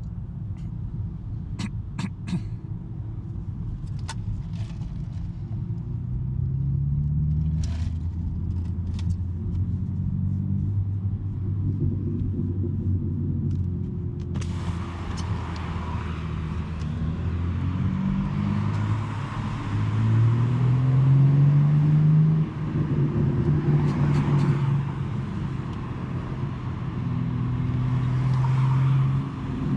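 2023 BMW M3 G80's twin-turbo inline-six, breathing through a non-resonated J-pipe exhaust, pulling through the gears at part throttle: the engine note climbs several times and drops at each upshift, the strongest pull about two-thirds of the way in. A few sharp clicks come in the first ten seconds, and about halfway a steady rushing noise joins in.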